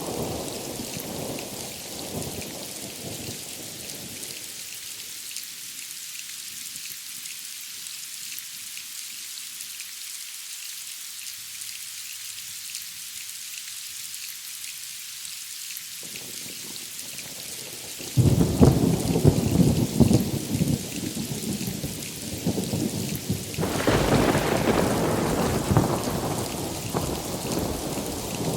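Steady rain falling through a thunderstorm. A low thunder rumble dies away over the first few seconds, then a sudden loud thunderclap breaks about eighteen seconds in and rolls on. Another rumble swells a few seconds later.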